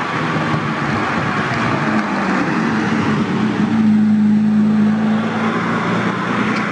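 Lamborghini Murciélago's 6.2-litre V12 running as the car drives past, its engine note growing stronger about two seconds in, over a steady hiss of road noise.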